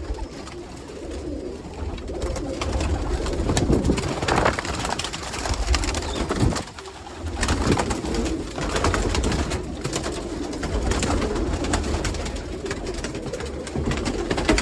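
Roller pigeons cooing and fluttering in their loft, with many scattered sharp wing claps and scuffs.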